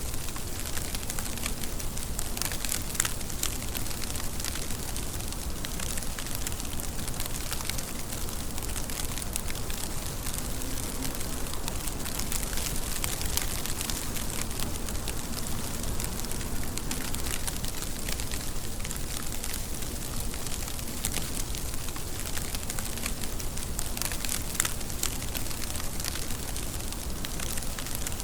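Steady rain falling, a dense even patter of drops with sharper individual drips ticking through it.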